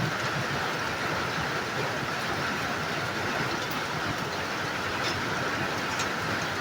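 Handheld torch burning with a steady hiss, heating a steel chainsaw file.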